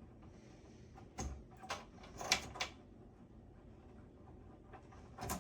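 Short clicks and knocks of parts and cable connectors being handled inside a desktop PC case: about five sharp taps, the loudest about two seconds in and another near the end.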